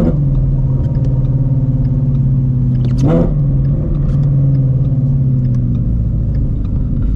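Shelby GT350's 5.2L Voodoo V8, fitted with long-tube headers, an X-pipe and a Borla catback exhaust, running with a steady deep drone at low speed. The engine pitch briefly rises and falls at the start and again about three seconds in.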